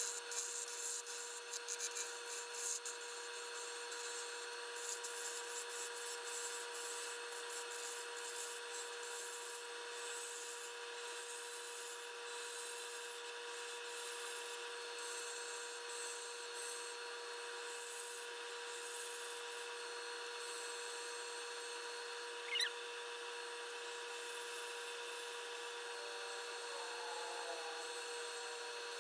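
Wood lathe running with a steady whine while a skew chisel shaves a spinning black locust burl pen blank. The cutting hiss is busiest in the first few seconds, then settles to a light, even scraping. One brief sharp squeal comes about three-quarters of the way through.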